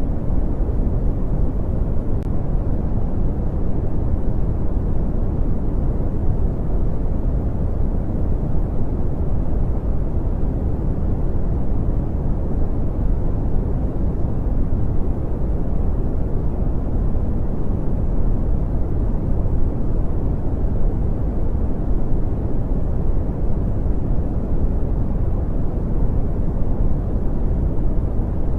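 Brown noise: a steady, deep rumbling hiss with its weight in the low end and little treble, unchanging throughout.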